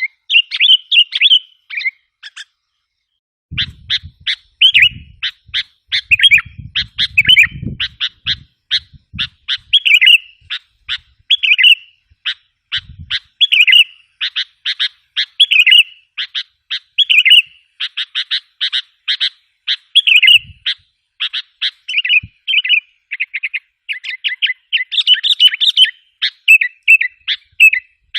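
Sooty-headed bulbul (kutilang) lure calls: quick runs of sharp, repeated chirps and short warbled notes, many to the second, with a brief pause about two seconds in.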